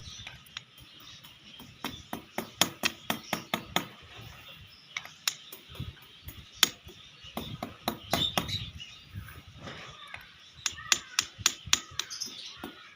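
Irregular series of sharp taps and clicks, coming in quick clusters with short gaps, typical of hand work with small tools and wire.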